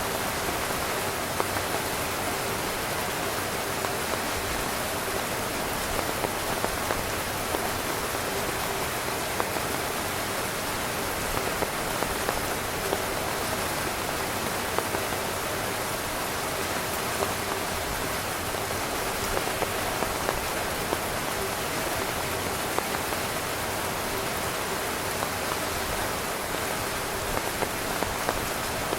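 Steady rain falling on a tent, a continuous hiss with frequent individual drops tapping on the fabric.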